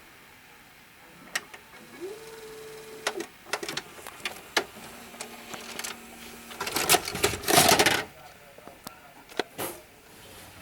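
VCR tape mechanism working: a series of sharp mechanical clicks and clunks, a motor briefly spinning up to a steady hum about two seconds in, a lower hum a couple of seconds later, and a loud rushing whir about seven seconds in.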